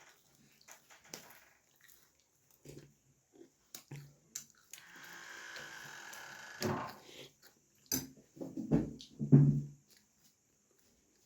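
Eating sounds: chewing and small mouth and food clicks, with a soft hiss for about two seconds in the middle and a few louder low-pitched sounds near the end.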